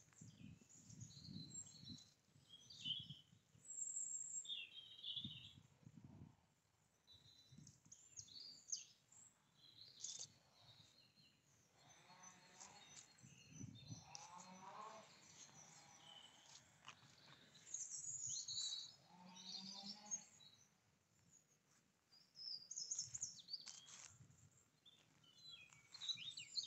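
Faint birdsong: scattered short high chirps and a few longer calls, with soft low thumps in the first few seconds.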